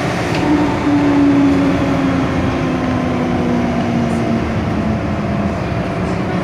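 MTR M-Train metro car running, heard from inside the car: a steady rail rumble, with a whine that rises in about half a second in and then slowly falls in pitch over about five seconds.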